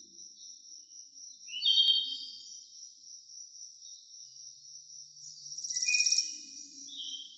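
Wild birds calling over a steady high-pitched trill. A loud call comes about two seconds in, and a rapid pulsed trill swells up and fades about six seconds in.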